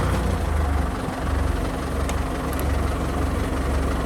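Kubota M6040 SU tractor's diesel engine running steadily at a low, even note, easing off briefly about a second in.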